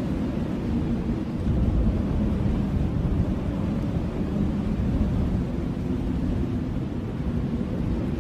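Blizzard wind blowing steadily, a deep rumbling rush with a thinner hiss above it and no gusts or breaks.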